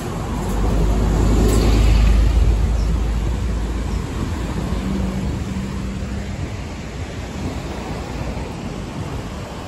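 Sagano Romantic Train carriage running along the line: a steady rumble of the wheels and car body with a rush of air, swelling louder about a second in and easing off after a few seconds.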